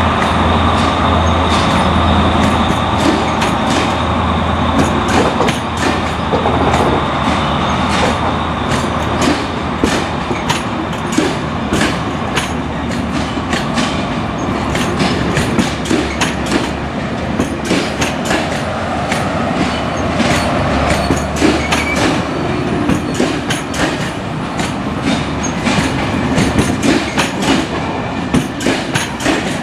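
Train running on the rails, with a steady rumble and many quick, irregular wheel clicks over the rail joints. A low hum fades out about two-thirds of the way through.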